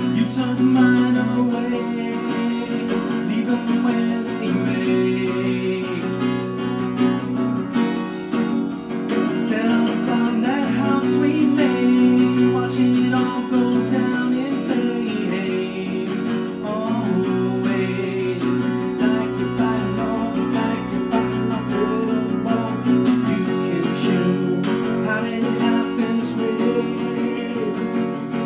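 Solo acoustic guitar strummed steadily, with a man singing over it.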